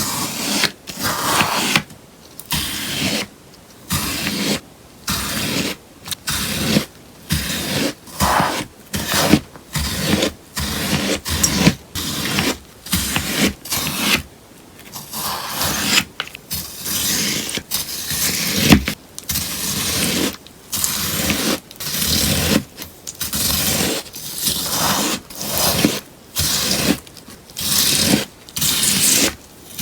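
Slime filled with pieces of melamine sponge being pressed and worked by hand, giving crisp crunching squishes in repeated strokes about once a second, with short pauses between them.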